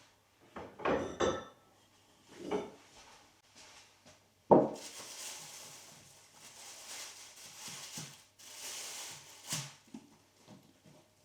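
Household objects being handled: a few clattering knocks, the loudest a sharp knock about four and a half seconds in, then several seconds of rustling hiss.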